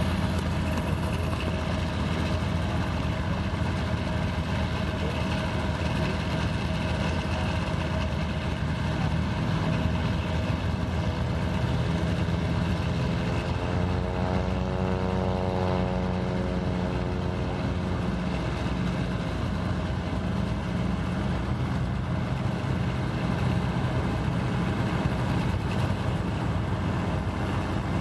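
Steady loud drone of an engine with a rush of wind, unbroken throughout. Around the middle, a sweeping tone swells, bends in pitch and fades as something passes.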